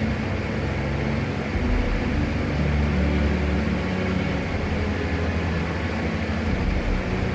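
Steady drone of a PAC 750XL's single turboprop engine and propeller heard from inside the cockpit, a constant low hum whose pitch wavers slightly.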